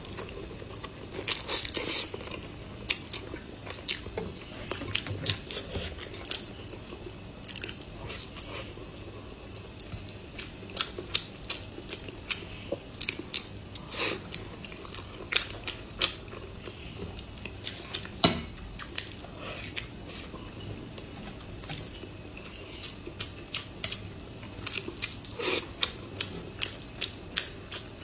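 A person chewing and biting mouthfuls of spicy braised pig brain, with many irregular smacks and clicks of the mouth and chopsticks.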